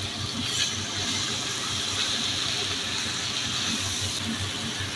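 Okra, onion and tomato sizzling in oil in a non-stick frying pan as a spatula stirs them through: a steady hiss.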